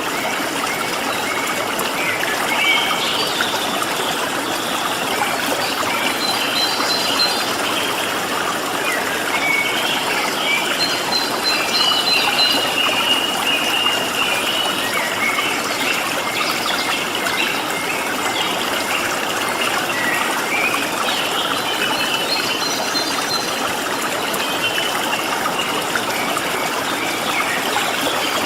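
Water flowing steadily with a constant rushing trickle, while small birds call over it with short high chirps and quick repeated notes.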